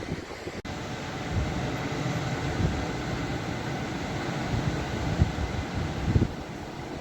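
Ocean surf at a beach: a continuous rush of waves with uneven low rumbling swells that rise and fall every second or two.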